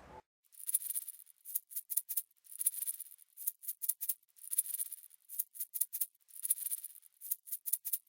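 A dry rattling, shaker-like sound in a repeating rhythm of about one shake a second, with short sharp clicks between the shakes.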